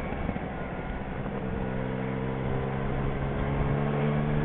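Motorcycle engine running at low road speed, with wind and road rumble; a steady engine note comes up clearly about a second and a half in.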